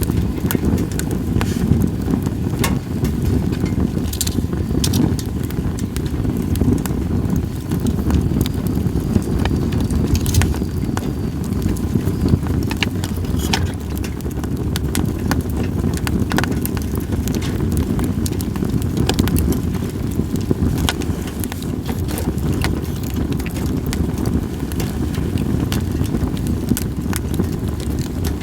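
Split sawtooth oak (kunugi) logs burning in a campfire, crackling with many scattered sharp pops over a steady low rumble.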